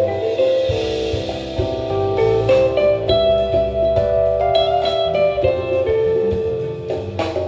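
Live band music, an instrumental passage with a melodic guitar line over bass and drums.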